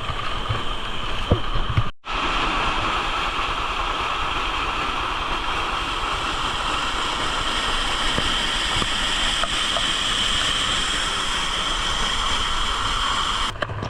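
Waterfall pouring down close to the microphone: a loud, steady rush of falling water. The sound drops out for an instant about two seconds in, then the rushing picks up again.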